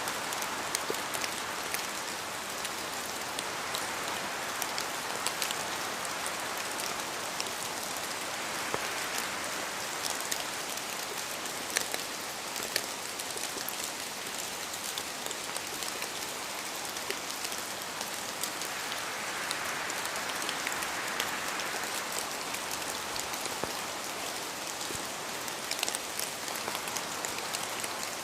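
Steady rain falling, with many separate drops ticking sharply over the hiss and a few slow swells of wind.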